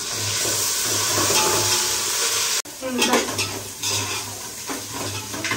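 Onions and mint frying in oil in a metal pot, sizzling loudly. After an abrupt break about halfway, a metal spoon scrapes and clinks against the pot as the mixture is stirred over quieter sizzling.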